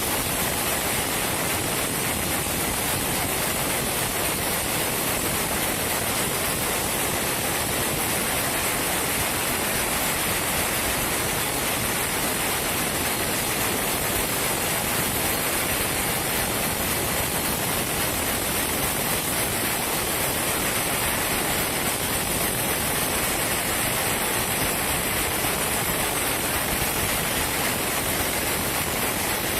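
Sawmill machinery running steadily, a constant loud rushing noise with no distinct strokes or pitch changes.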